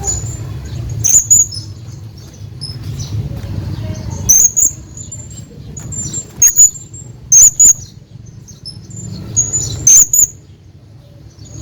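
Hanging parrot giving short, shrill, very high-pitched calls, about ten of them, several in quick pairs, over a low rumbling background.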